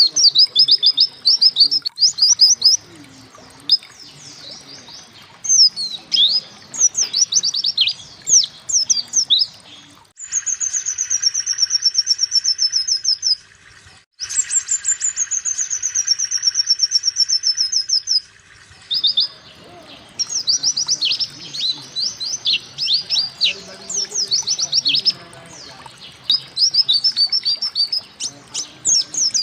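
Pleci (white-eye) singing: quick runs of high chirping notes, with two long, fast trills about ten and fourteen seconds in, each a few seconds long and sliding slightly down in pitch.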